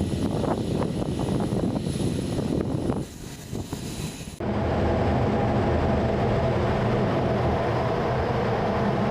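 Jet aircraft engine noise: a rumbling roar that drops away about three seconds in, then cuts abruptly a little over four seconds in to a steadier, louder engine sound.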